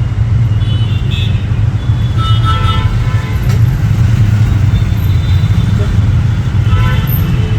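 Steady low rumble, with faint voices coming and going over it.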